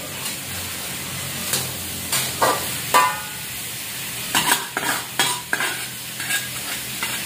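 Sliced chayote sautéing in oil in a metal wok, sizzling steadily, while a spatula stirs it and scrapes and clacks against the pan at irregular moments.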